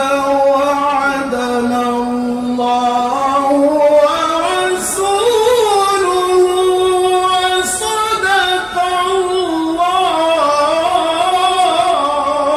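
A man reciting the Quran in the melodic tilawah style, drawing out one long phrase with held notes and ornamented pitch that rises and falls.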